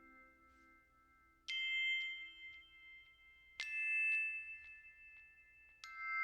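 Three struck bell tones about two seconds apart, each ringing on with several clear pitches before the next strike.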